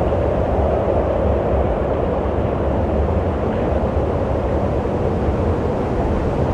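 Wind blowing steadily: a continuous rushing noise with a deep rumble beneath it.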